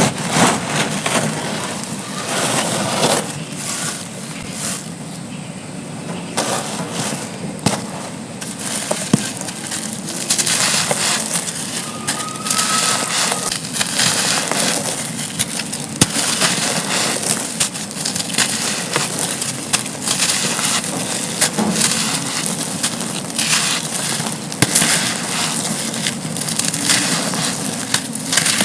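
Dry, gritty sand slabs being crumbled: a dense, continuous run of crunches and crackles, with sharp snaps scattered throughout.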